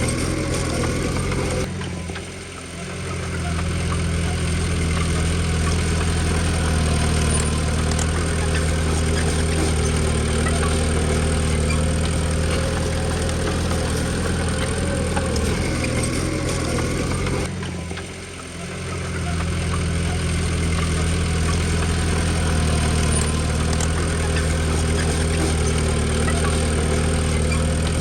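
Diesel engine of a Komatsu D20P bulldozer running steadily with a low hum. The sound drops away briefly about two seconds in and again about eighteen seconds in.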